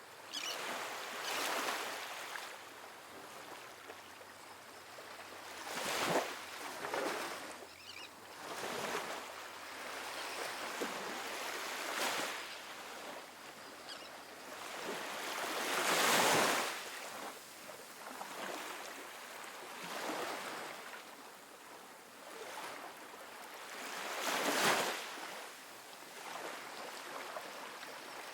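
Soft ocean waves breaking and washing onto a sandy beach, a surge of surf every few seconds swelling and fading, the loudest about a third of the way in and another near the end.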